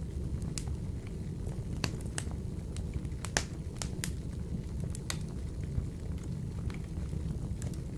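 Wood fire burning in a wood-burning stove: irregular sharp crackles and pops over a steady low rumble, with the loudest pop about three and a half seconds in.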